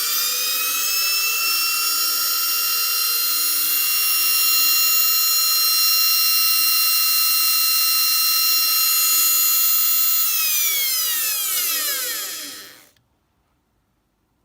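MCA 52/64-148 washing-machine motor running unloaded on a test supply with a loud, steady high whine. About ten seconds in it is cut off and winds down with a falling whine, stopping about three seconds later.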